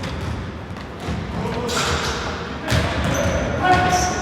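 Basketball game in an indoor sports hall: the ball thuds and bounces on the court, with the hall's echo. A short high-pitched sound comes near the end.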